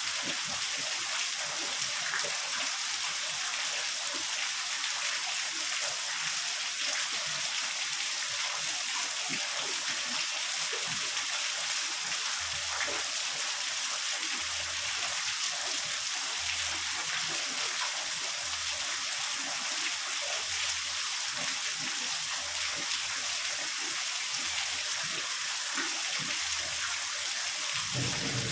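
Heavy rain falling in a steady, dense hiss. A low rumble of thunder starts just before the end.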